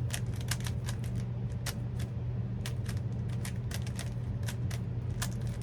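Rubik's cube being turned rapidly during a speed-solve, its plastic layers clicking in quick irregular bursts of several clicks a second, over a steady low hum.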